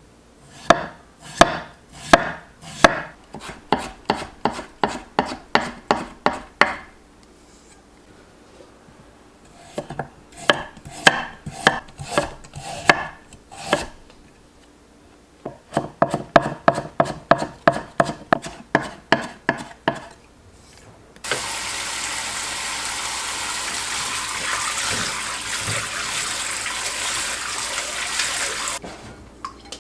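Knife chopping vegetables on a cutting board in quick, regular strokes, about three a second, in three runs with short pauses between. About twenty-one seconds in, a tap starts running steadily and stops just before the end.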